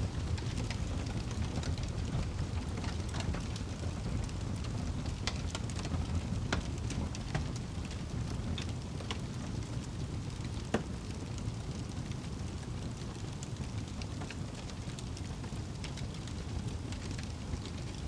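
Wood fire burning in a fireplace: a steady low rumble of flames with scattered sharp crackles and pops, one louder pop near the middle.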